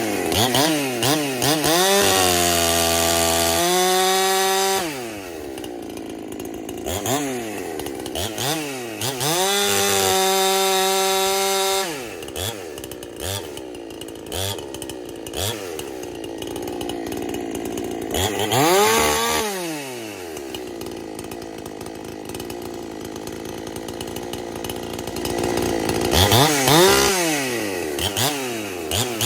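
Two-stroke Husqvarna 372 XP chainsaw, freshly rebuilt with a big bore top end, base gasket deleted and muffler opened up, being revved in repeated throttle blips and held runs, dropping back to idle between them. It is tuned a little on the rich side for the fresh build.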